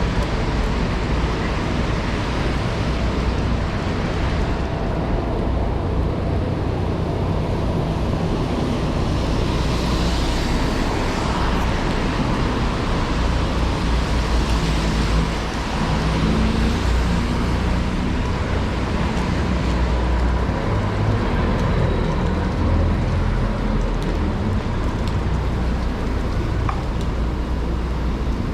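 Steady city street traffic in heavy rain: cars passing on wet roads with a continuous low rumble and a broad hiss.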